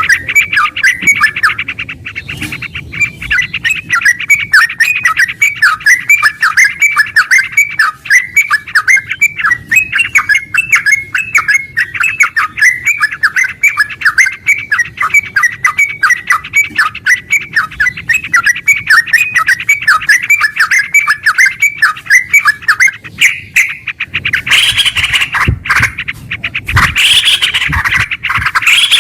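Yellow-vented bulbul singing a long, fast, unbroken run of short notes, the rapid 'ngeropel' song used as a lure. In the last few seconds the notes turn louder and harsher.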